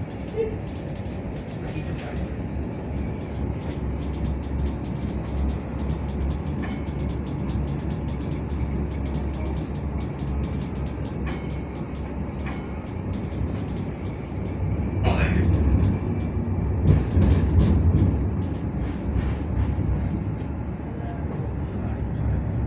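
Hong Kong Light Rail train running, heard from inside the car: a steady low rumble with scattered clicks, getting louder about fifteen seconds in.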